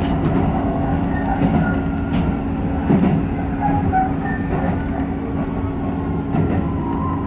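Keisei 3000-series commuter train running, heard from inside the car: a steady rumble of wheels on rail with scattered clicks and faint, thin high-pitched squeals now and then.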